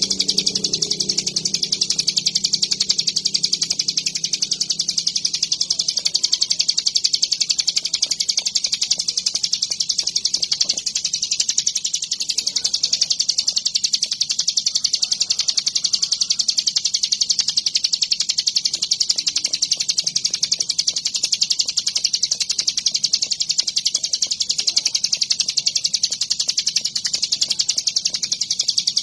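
Ciblek gunung, a prinia, singing a fast, unbroken high-pitched chattering song. A low hum fades out in the first few seconds.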